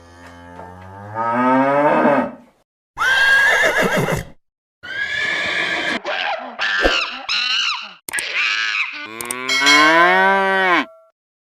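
A series of loud bird calls, about five in all; the first and the last are long and drawn out, rising in pitch, with shorter calls between them.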